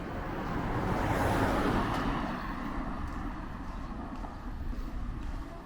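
A vehicle driving past on the street, its engine and tyre noise swelling to a peak about a second and a half in and then fading away.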